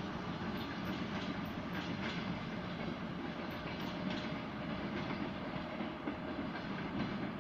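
DR1A diesel multiple unit rolling along the track: a steady running noise, with the wheels clicking over rail joints now and then.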